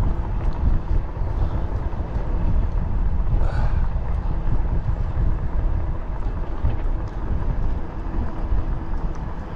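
Wind buffeting the microphone of a moving bicycle ride: a steady low rumble, with a brief higher hiss about three and a half seconds in.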